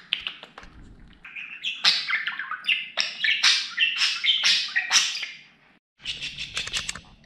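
Budgerigar chirping and warbling in a rapid run of rising and falling chirps, breaking off briefly near the end and resuming as fast clicking chatter.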